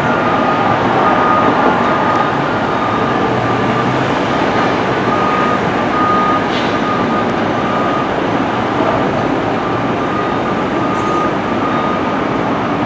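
Steady, loud vehicle rumble with a backup alarm beeping repeatedly in short high tones throughout.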